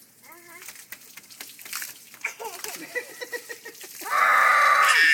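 A child's loud, sustained shriek lasting about a second and a half near the end, after a few seconds of faint scattered sounds.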